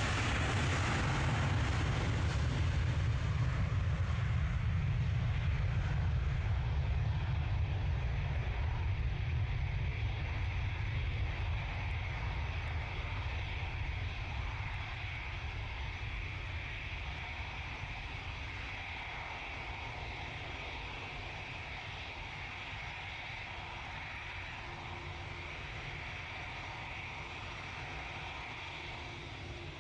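Jet airliner's engines at takeoff power: a steady, deep rumble that slowly fades as the aircraft climbs away.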